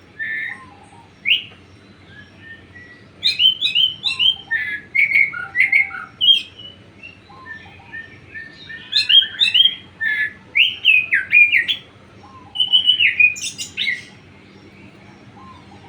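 A songbird singing: quick varied chirps and whistled notes strung into phrases, with short pauses between them.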